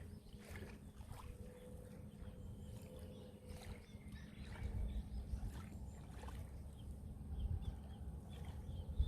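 Sea waves washing in: a soft low rumble of surf with faint scattered splashes.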